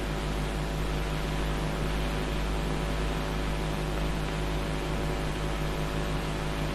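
Steady electrical mains hum with an even hiss, unchanging throughout, with no distinct knocks, blasts or other events.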